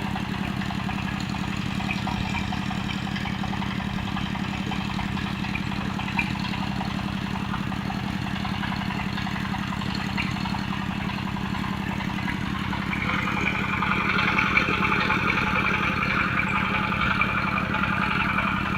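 Engine of a HANJIN well-drilling rig running steadily with a deep even drone. About two-thirds of the way through, a rougher, higher layer joins in and it gets a little louder.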